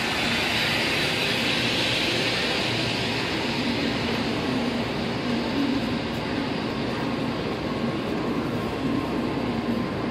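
N700-series Tokaido Shinkansen train moving slowly alongside the platform: a steady rush of running noise with a low hum under it, loudest in the first two seconds, then easing a little.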